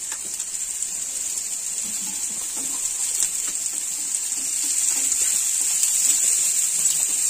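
Chopped onion, ginger, garlic and green chilli sizzling in hot oil in a non-stick frying pan, with light scrapes of a silicone spatula stirring them. The sizzle grows a little louder over the second half.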